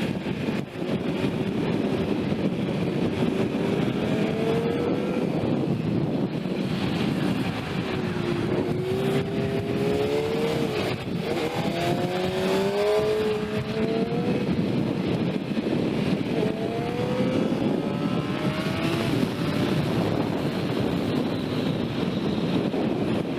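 Sport motorcycle engine ridden hard under a steady rush of wind. Its pitch climbs through the revs and breaks back down at each gear change, several times in a row.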